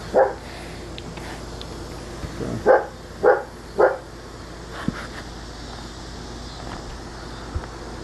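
A dog barking: one bark at the start, then three barks in quick succession about three seconds in.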